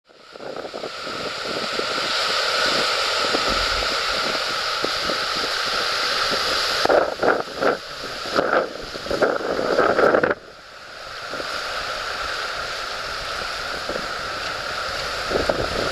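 Floodwater rushing steadily through the Nango Araizeki river weir. Irregular gusts buffet the microphone for about three seconds after the middle, then the rush cuts back in more quietly.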